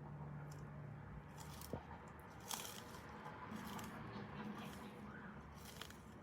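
Sulcata tortoise biting and tearing at dandelion leaves: faint, irregular crunches and squishy bites.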